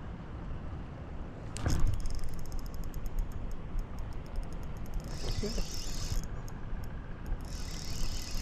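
Steady low rush of fast spillway water and wind on the microphone. About a second and a half in, a sudden louder moment is followed by a run of rapid high clicking lasting about two seconds, and two short stretches of high hissing come later.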